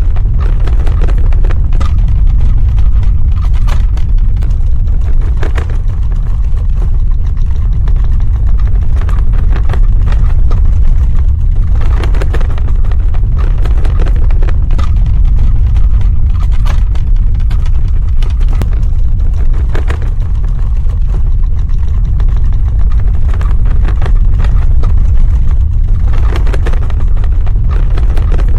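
Earthquake sound effect: a loud, continuous deep rumble with scattered crackles and knocks through it.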